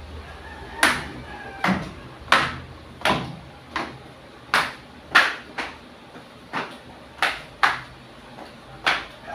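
A series of about a dozen sharp knocks, unevenly spaced about half a second to a second apart.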